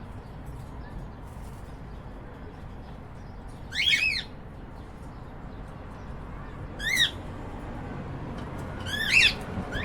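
Cockatiel calling: three short chirping calls about two to three seconds apart, the first and last made of quick repeated notes, over a low steady background hum.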